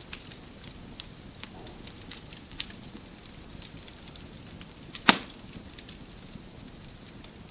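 Wood fire crackling in a fireplace: scattered small pops and ticks over a low hiss, with one much louder snap about five seconds in.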